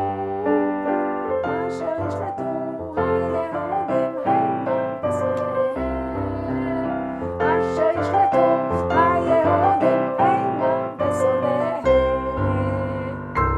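Piano-toned keyboard playing a nigun melody over chords, ending on a held chord that fades away.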